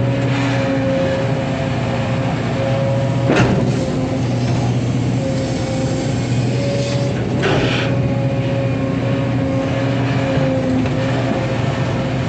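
Excavator running steadily with a constant pitched drone, broken by two sharp metallic clanks, about three and seven and a half seconds in.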